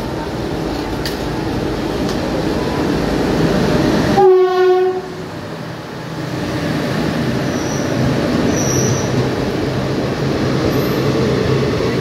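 Indian Railways express train passing through a station. The rumble of the approaching locomotive builds, and its horn sounds one short blast, under a second long, about four seconds in. Then the coaches run past in a steady rumble.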